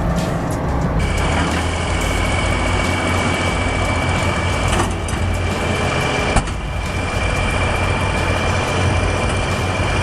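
Heavy machine engine running steadily under a deep hum, joined about a second in by a steady high-pitched whine.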